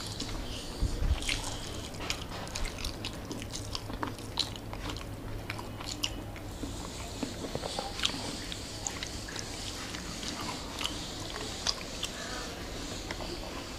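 Close-up wet chewing of a mouthful of rice eaten by hand, with many small mouth clicks and lip smacks.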